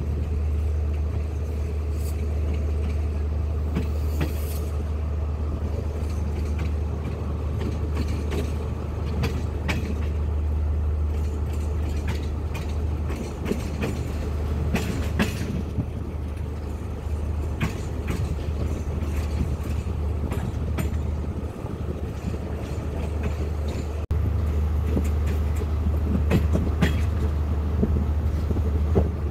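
Passenger train coach rolling slowly over station tracks, heard from the coach: a steady low rumble with scattered clicks and clacks of the wheels over rail joints and points. The sound gets louder about three-quarters of the way through.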